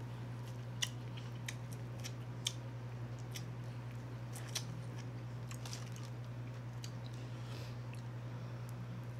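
Close-miked chewing and biting: wet mouth clicks and smacks as cheese-and-Cajun-seasoned corn is eaten, over a steady low hum.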